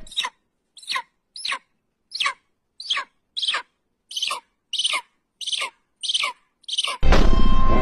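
A bird calling over and over: about a dozen short, shrill calls, roughly two a second, each sliding down in pitch. Near the end the calls are cut off by a louder stretch of music.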